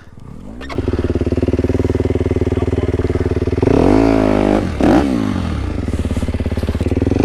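Dirt bike engine revving up and held at steady revs under throttle, with two quick rises and falls in pitch a little past halfway.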